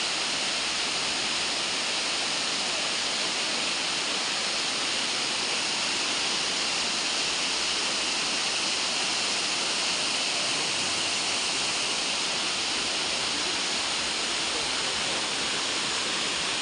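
Elephant Falls waterfall: a steady, even rush of falling water.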